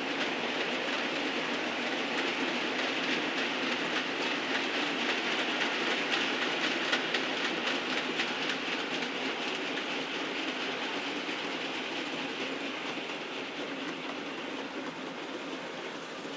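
Model train running along the layout's track, with a steady rolling rumble and rapid clicking from the wheels over the rails, slowly fading near the end as it draws away.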